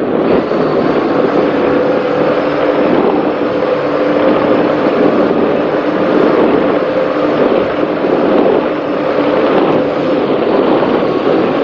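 Race powerboat's engines running hard at speed, a steady drone mixed with the rush of wind and water.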